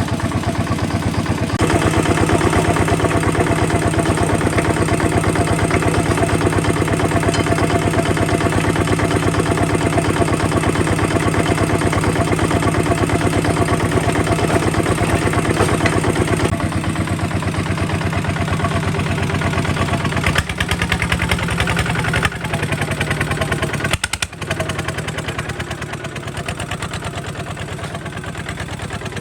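Kubota RT140 DI single-cylinder diesel engine running with a rapid, even firing beat. It gets louder about two seconds in, then eases off a little past halfway, with a few brief dips in level.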